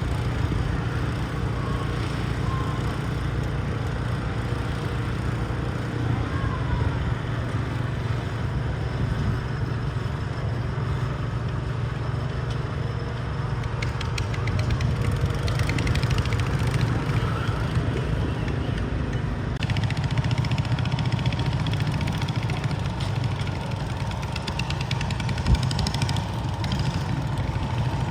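Garden tractor engine running steadily at a pull, with one brief sharp click near the end.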